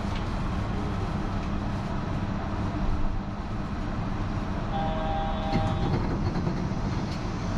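Steady rumble and hum inside a Yurikamome rubber-tyred automated guideway train car, with a brief electronic tone, a few notes sounding together for about a second, about five seconds in.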